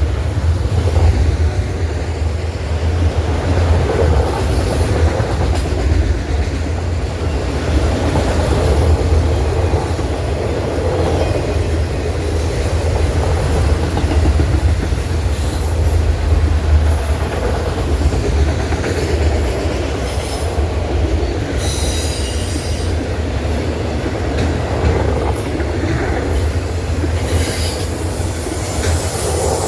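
Norfolk Southern freight train rolling past: a steady heavy rumble of wheels on rail with clickety-clack, and brief high-pitched wheel squeals now and then, near the middle and toward the end.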